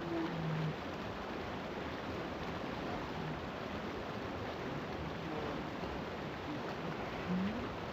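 Running water, a steady even rush, with a short low tone at the very start and a brief rising one near the end.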